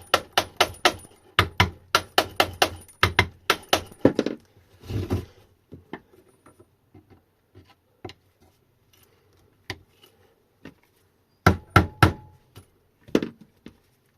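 Quick hammer blows on metal, about four a second for the first four seconds, then a brief scraping rustle, a few light clicks, and another short run of sharp blows near the end, as the rear cover of an electric dirt bike's hub motor is worked loose.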